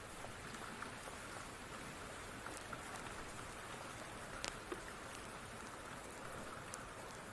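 Steady rain falling, with scattered small sharp pops and ticks; the loudest come in a quick pair about four and a half seconds in.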